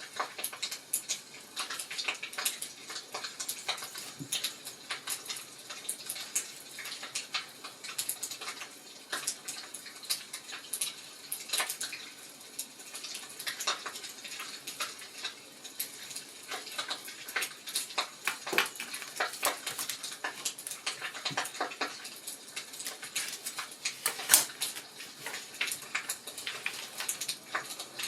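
Wood fire crackling, with irregular sharp pops and snaps and one louder pop near the end.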